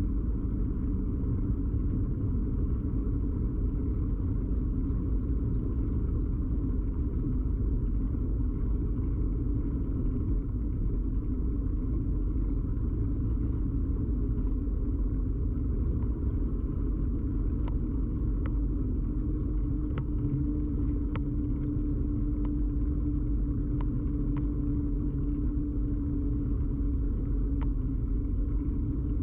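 Steady low rumble of a bicycle ride, carried by vibration into a camera fixed to the bike frame. Scattered clicks and rattles come in the second half, and a low steady hum joins past the middle.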